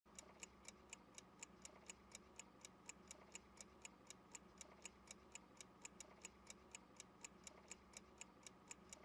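Faint ticking-clock sound effect, an even run of sharp ticks about four a second, starting abruptly. It serves as a timer for the learner's turn to answer.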